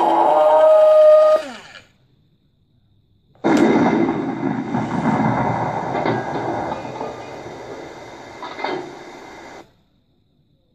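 RC Tiger tank sound module playing recorded tank sounds through its small speaker, as separate samples with silent gaps. A sound with a steady tone stops about two seconds in. After a pause, a rough mechanical running sound starts suddenly, fades over about six seconds, then cuts off.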